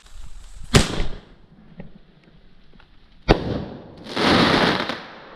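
A 16-gram Whiz Bang shot tube firework firing. There is a sharp bang about a second in and another about two and a half seconds later, then a hissing rush lasting about a second.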